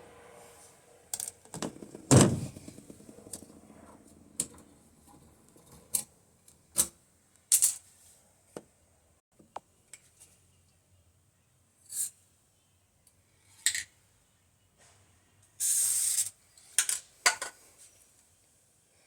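Scattered clicks and knocks of things being handled, the loudest knock about two seconds in, with a brief hissing burst lasting about half a second near the end.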